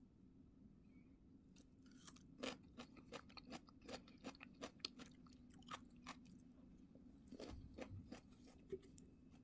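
Faint crunchy chewing of pan-grilled radish wedges: irregular soft crunches, several a second, starting about two seconds in and going on to near the end.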